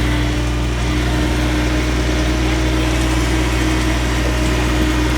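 Small tractor engine running at a steady speed, an even drone with no change in pitch.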